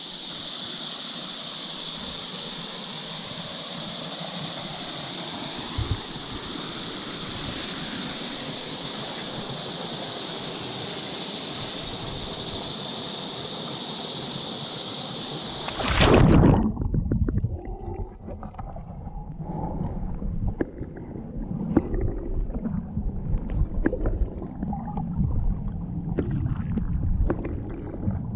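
Steady high insect buzzing over the creek. About sixteen seconds in, a splash as the microphone plunges underwater cuts it off. The rest is muffled underwater gurgling and knocking while snorkelling.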